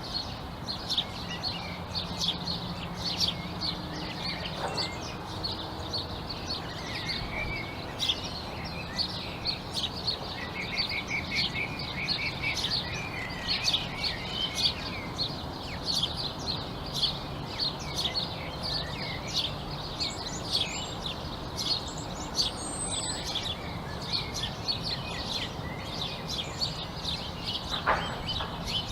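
A chorus of many small birds chirping and calling, a dense, continuous stream of short high chirps, over a steady low background hum.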